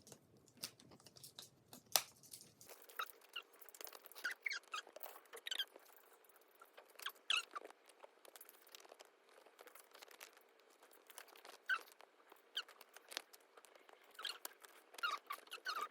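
Plastic album packaging and sleeves being handled: scattered light clicks and crinkles with many short squeaks.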